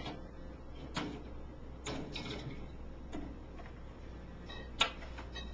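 Beers being set onto fridge shelves: a few separate sharp clinks and knocks, one about a second in, a small cluster around two seconds and the loudest near the end, over a low steady hum.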